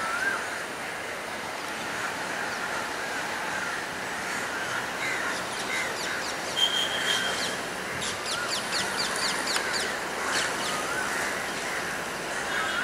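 Class S11 diesel multiple unit power set approaching with a steady running noise, while birds call repeatedly over it; a quick run of short high chirps comes about eight seconds in.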